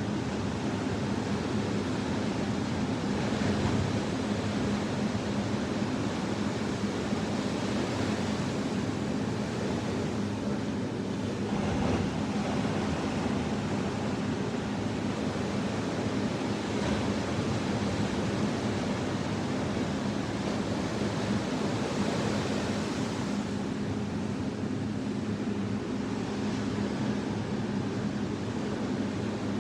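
Atlantic Ocean surf washing onto a sandy beach: a continuous, even rush of wave noise that swells only slightly, with no distinct breaking crashes.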